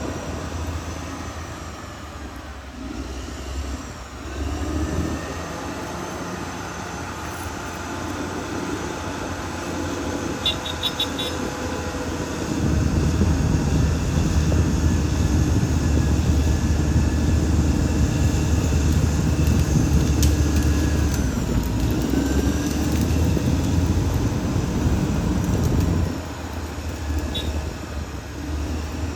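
Caterpillar D6R XL bulldozer running, its diesel engine getting louder and heavier from about twelve seconds in and easing off again near the end. A brief run of quick ticks comes about ten seconds in.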